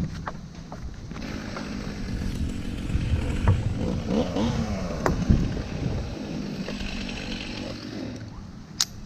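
Chainsaw engine running, its pitch rising and falling in the middle as the throttle is worked. A single sharp click near the end.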